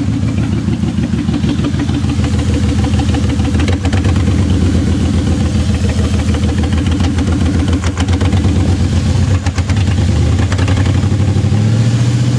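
1996 Mercury Grand Marquis's 4.6-litre V8 idling through straight headers with no mufflers: a loud, rapid train of exhaust pulses. The engine speed rises a little near the end.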